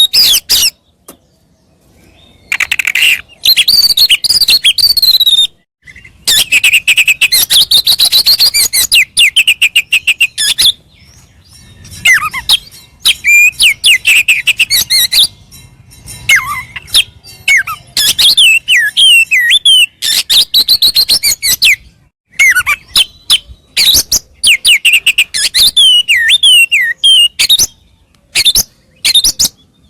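Oriental magpie-robin (kacer) singing loudly in fast, varied phrases: whistled glides and warbles mixed with rapid chattering runs, broken by brief pauses. This is the bird's full song with its mimicked 'isian' phrases.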